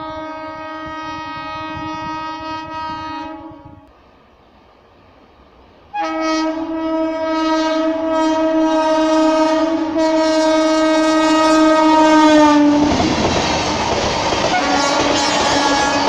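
Locomotive horn in two long steady blasts, the second starting about six seconds in and dipping slightly in pitch as the locomotive passes. Then the loud rush and wheel clatter of the passenger train's coaches running past.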